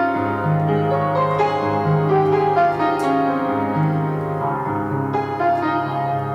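Piano music: slow chords and melody notes, each held for about a second before the next.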